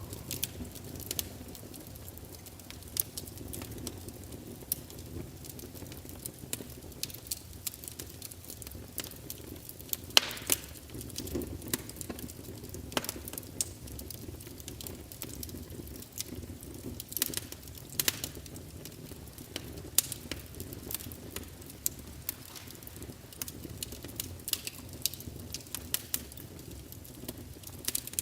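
Fire crackling: irregular sharp pops and snaps, one louder snap about ten seconds in, over a low steady rumble of the burning.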